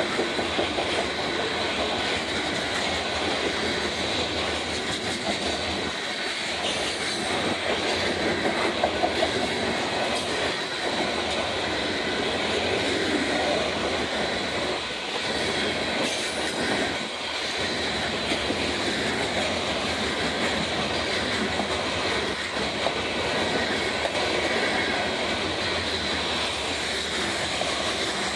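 Union Pacific grain train of covered hopper cars rolling steadily past close by: continuous rumble of steel wheels on the rail, with a thin, high wheel squeal held throughout.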